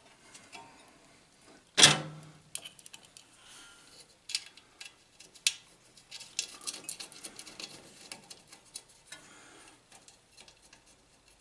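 Small metal parts clicking and clinking as a stator and its screws are fitted to a small engine and finger-tightened, with one sharp metallic knock about two seconds in and a run of lighter clicks after the middle.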